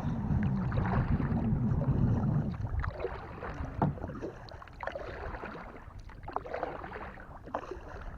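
Kayak paddling: paddle strokes splashing and dripping in the water, with a low rumble over the first two and a half seconds.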